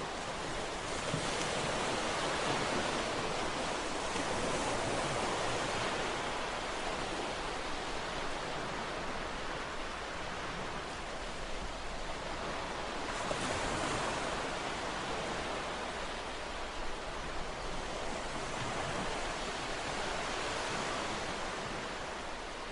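Ocean waves washing onto a shore: a continuous rushing hiss that swells and ebbs, with stronger surges about a second in, about thirteen seconds in, and near the end.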